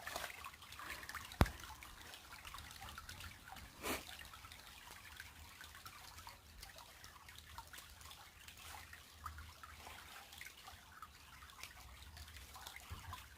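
Small creek trickling and dripping softly. A sharp click about one and a half seconds in and a soft knock near four seconds.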